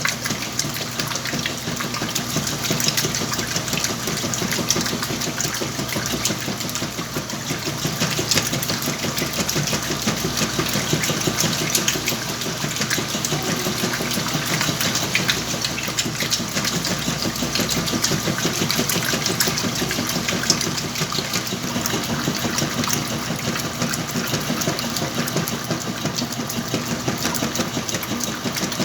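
Whirlpool washing machine running through a wash cycle with blankets inside: a steady motor hum overlaid with a fast, continuous clatter.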